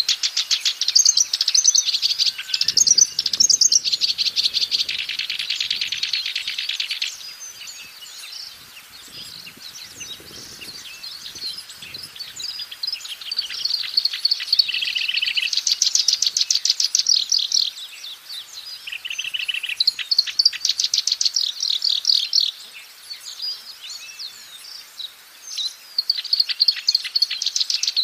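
Black-browed reed warbler singing: several bouts of fast runs of repeated notes, with short quieter pauses between them.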